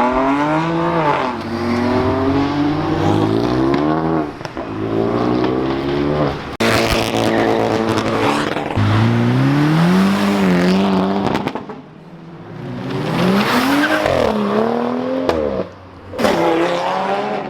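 Performance car engines accelerating hard and revving, the pitch climbing and dropping back again and again as they change gear. The sound dies down briefly about twelve seconds in before another car revs up.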